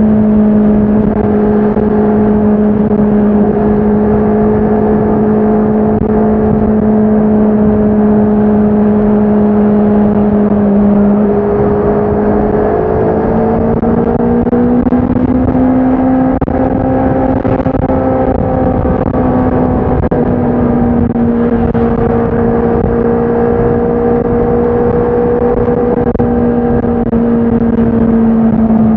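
Honda CBR650R's inline-four engine and exhaust running at steady cruising revs. The pitch rises a little before halfway and eases back slightly later on.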